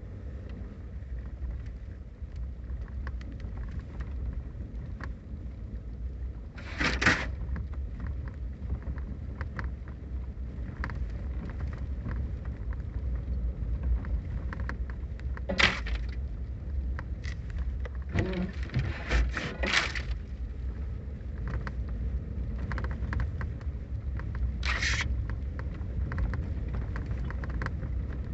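Winter storm outdoors: wind rumbling steadily on the microphone, with scattered ticks of rain and ice pellets and a few short hissing rushes.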